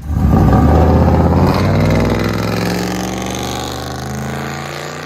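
2006 Chevy Silverado 2500HD's 6.0L V8 through a true dual straight-pipe exhaust, revving hard, then pulling away, its exhaust note growing steadily fainter.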